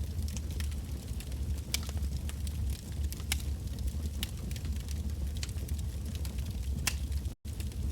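Campfire of burning firewood crackling, with scattered sharp pops and snaps over a steady low rumble. It cuts out for an instant near the end.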